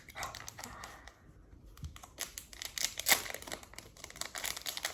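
Jewellery packaging being handled and unwrapped by hand: a dense run of quick, irregular crackles and rustles, loudest a little after the middle.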